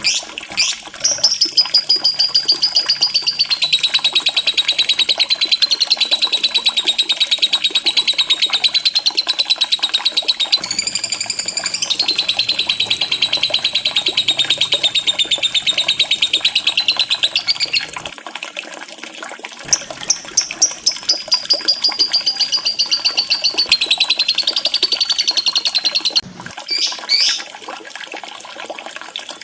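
Lovebird giving a long, rapid rattling trill of high chirps, the 'ngekek' song used to provoke other lovebirds into singing. It runs almost unbroken for about seventeen seconds, breaks into separate chirps, then runs again before ending in a few single notes.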